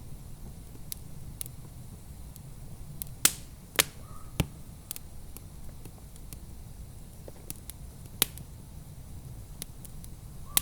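Wood fire crackling in a fireplace: irregular sharp pops and snaps, the loudest clustered about three to four and a half seconds in and again about eight seconds in, over a steady low rumble.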